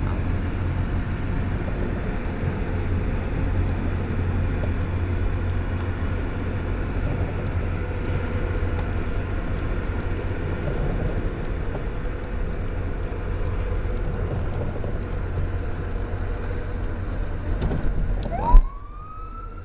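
A steady rumble with a low hum. Near the end it cuts off at a click, and an emergency vehicle siren starts, its wail rising and then falling.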